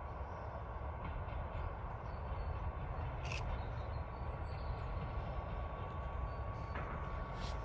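Diesel locomotive running, a steady low rumble with a faint steady whine over it.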